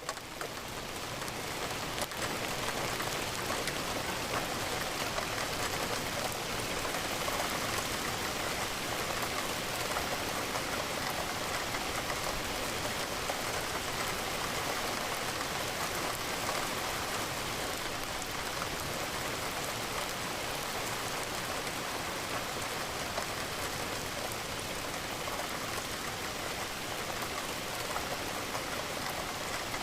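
Steady rain falling against a window, an even hiss of drops. It drops away briefly at the very start and swells back within about two seconds.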